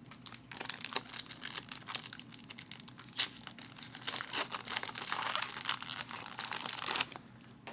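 Wrapper of a 2006-07 SP Authentic hockey card pack crinkling and tearing as it is opened and handled, a dense crackle that stops about seven seconds in.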